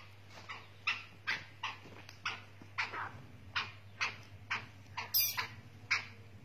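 Black francolin making a steady run of short sharp sounds, about two or three a second, with one louder, harsher one about five seconds in.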